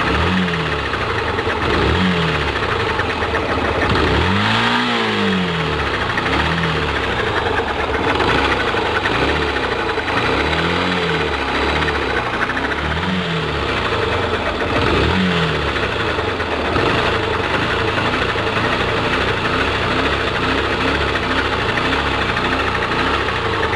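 Yamaha Factor ED single-cylinder motorcycle engine running at idle with a knocking, clattering noise, its speed swelling and falling briefly several times. The noise appeared right after a 12,000 km service, and the owner wonders whether it is the cam chain.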